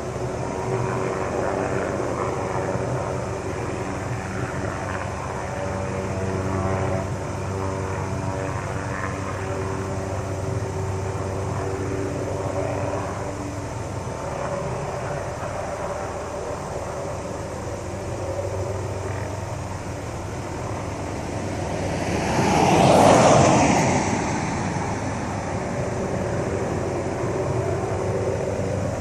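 Tree-trimming helicopter heard from a distance, its engine and rotor droning steadily with a hum of even tones. About three quarters of the way through, a louder rush of noise swells and fades over a couple of seconds.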